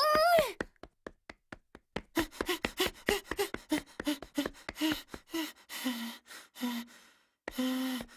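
Cartoon sound effects: a brief cry, then a fast patter of light taps of hurried running footsteps, several a second. The later taps carry a low pitch, and the last few are longer, held sounds.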